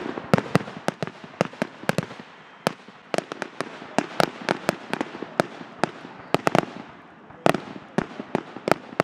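Aerial fireworks finale: a rapid barrage of shell bursts, several sharp bangs a second, with a brief lull before a loud bang near the end.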